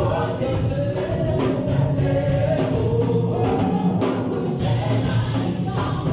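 A choir sings a gospel worship song in a live rehearsal, with a band backing it and a steady beat.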